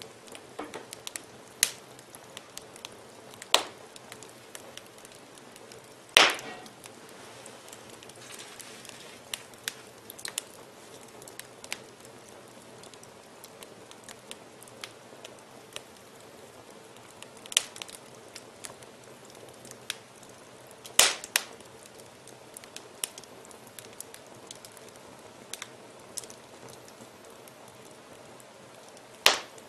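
Wood fire burning in a fireplace: a soft steady crackle with irregular sharp pops, two louder snaps about six seconds in and about twenty-one seconds in.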